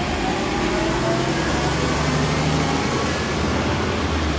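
Garbage truck engine running steadily, with a hum and an even hiss and a faint pitch that rises slowly.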